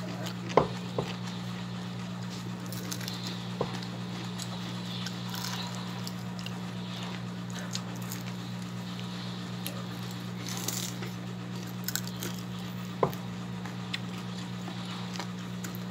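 Close-miked chewing and crunching of crispy fried tilapia eaten by hand, with a few sharp clicks, the loudest about half a second in. A steady low hum runs underneath.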